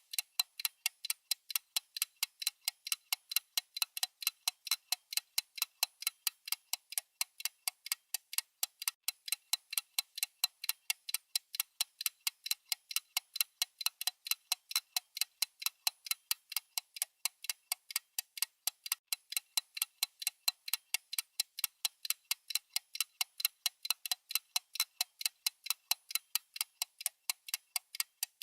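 Clock-like ticking sound effect of a countdown timer: sharp, even ticks, several a second, thin and without any low end.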